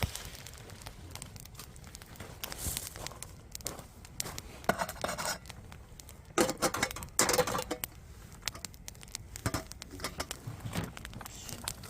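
Wood fire crackling in a fire pit, with many small sharp pops and clicks. A few louder bursts of crackling come about halfway through.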